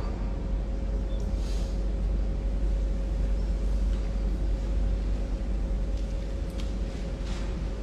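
Background hum during a silent part of a congregational prayer: a steady low rumble and hiss with a faint steady tone, and a few soft rustles about a second and a half in and again near the end.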